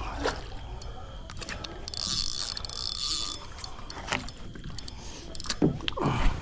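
Fishing reel cranked and clicking as a big catfish is fought on the line, with a loud hiss of about a second and a half about two seconds in. A few knocks near the end.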